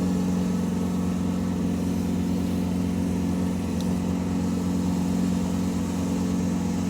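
Steady mechanical hum of a running engine or motor, holding one even pitch throughout, with a single faint tick about four seconds in.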